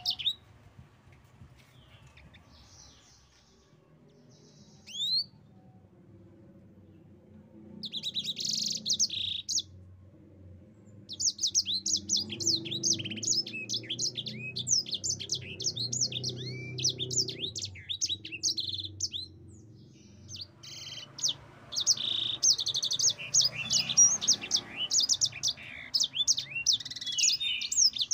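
Yellow-fronted canary (sanger) singing. A few scattered chirps come first, then a short burst of song about eight seconds in, then a long run of rapid, high twittering notes from about eleven seconds on.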